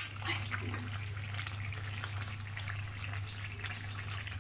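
Beef curry sizzling in a karahi as peeled whole potatoes are dropped in one by one, with a sharp knock at the very start and crackling throughout over a steady low hum.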